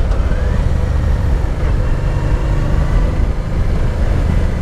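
Honda Deauville V-twin motorcycle riding along the road: a steady low engine rumble mixed with wind and road noise on the bike-mounted microphone.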